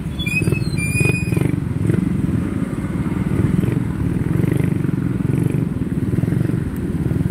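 Small motorcycle engine running steadily, heard from aboard the moving bike in street traffic. About a second in there are two short high chirps.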